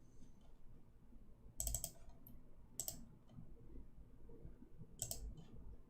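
Faint clicking from computer input: a few short, separate clicks, over a low steady background hum.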